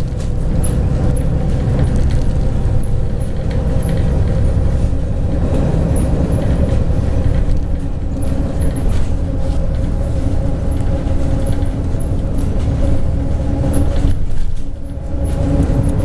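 MAZ 103.562 bus under way, heard from inside: engine and driveline running steadily over a heavy road rumble, with light rattling of the cabin fittings. The sound drops briefly near the end, then picks up again.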